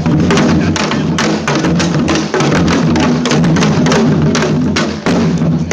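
Live percussion music: fast, dense drumming with many sharp strikes and a steady low tone underneath.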